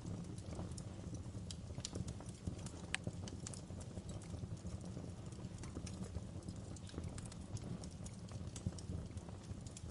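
Wood fire in a fireplace crackling: irregular sharp pops and snaps over a steady low rumble of flames, with one louder pop about three seconds in.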